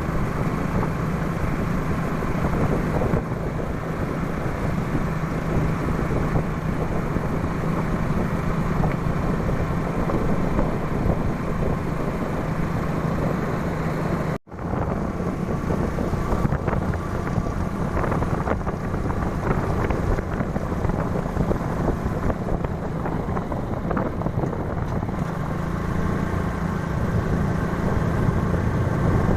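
Motorbike engine running steadily under way, with wind noise on the microphone. The sound drops out for an instant about halfway through, then resumes.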